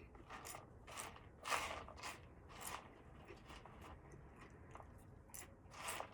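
A person chewing crunchy food close to the microphone: a run of crunches about every half second, the loudest about one and a half seconds in, then a pause and two more crunches near the end.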